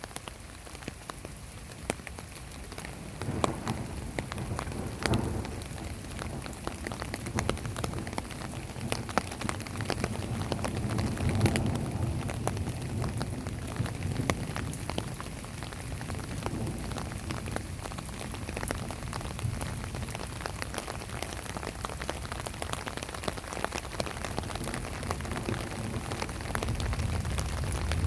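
Heavy rain falling, with a dense patter of individual drops hitting a surface. From about three seconds in, a low rumble of distant thunder rolls underneath, swelling around the middle and growing louder near the end.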